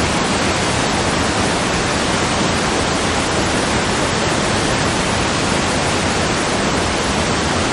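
Waterfall: a noisy, steady rush of falling water, even and unbroken throughout.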